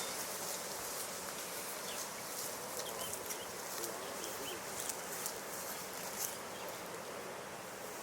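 Outdoor natural ambience with a steady faint hiss, a few faint short bird chirps and scattered high ticks.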